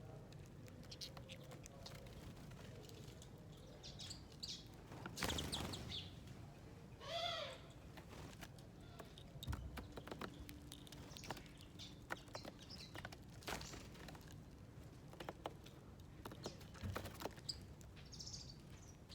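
Small wild birds at a seed-and-nut feeding plate: scattered clicks and taps of birds moving and pecking, a flurry of wings about five seconds in, a short harsh call a couple of seconds later, and faint high chirps.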